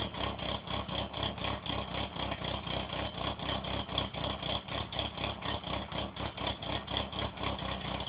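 Car engine idling after a cold start, with an even, lumpy pulsing of a few beats a second that sounds like a rotary engine.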